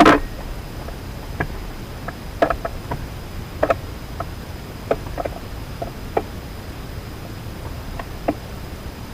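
Birds at a backyard seed feeder: one loud sharp knock at the very start, then scattered light taps and clicks, irregular and a couple a second, over a steady outdoor hiss.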